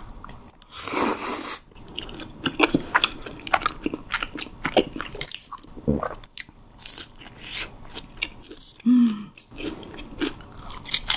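Close-miked biting and chewing of crunchy fried snacks, with many sharp crunches and wet chewing clicks; a loud crunch about a second in and a brief low hum about nine seconds in.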